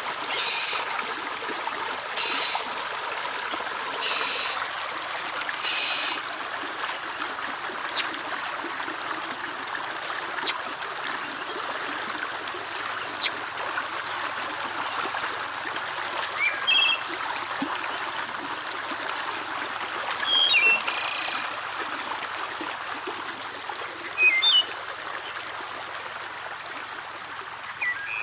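Water trickling steadily with bird calls over it: four harsh, wide-ranging calls about two seconds apart near the start, then a few sharp clicks and scattered short chirps.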